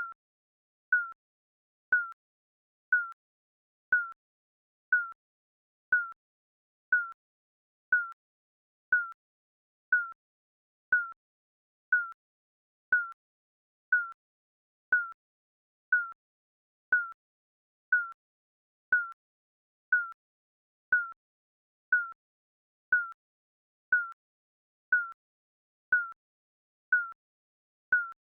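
Digital countdown timer beeping once a second: short, high electronic beeps at a steady pitch, with silence in between.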